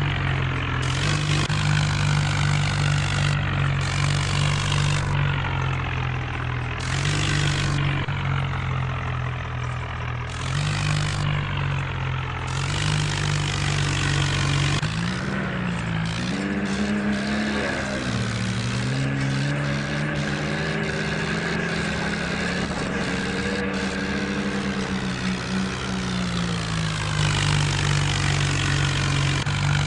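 A John Deere tractor's diesel engine running steadily under work. Its pitch wavers and shifts through the middle stretch and settles back near the end, as the engine speed changes.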